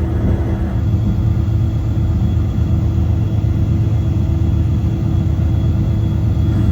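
Steady low rumble of a passenger train running along the track, with a constant low hum.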